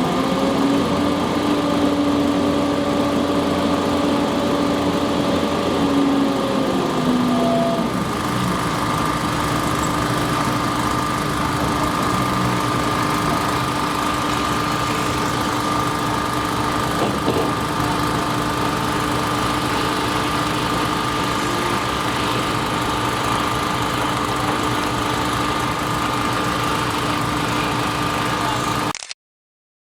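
Machine engine running with a steady drone and a fixed whine. In the first several seconds a second motor note rises, holds and then drops away. Near the end the sound cuts out for about a second.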